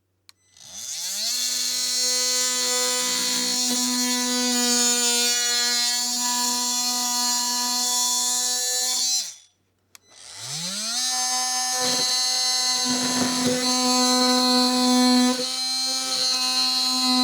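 Ryobi oscillating multi-tool running in two bursts to cut out a marked section of plastic: each run spins up to a steady high buzz, the first stops about nine seconds in, and the second starts a moment later and keeps going.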